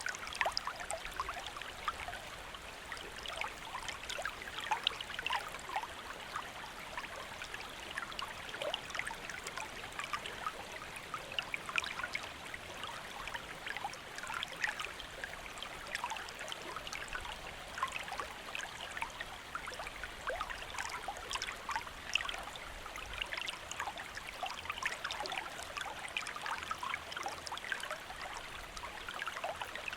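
Shallow stream running steadily, water babbling and splashing over rocks with many small trickles and plops.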